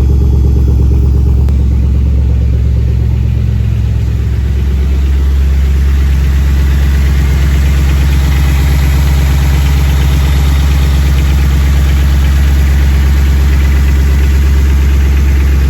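Twin-turbo, fuel-injected engine on E85 idling cold, with a rattle of piston slap that is typical of cold pistons and should fade as the engine warms. The idle settles a little lower about four seconds in.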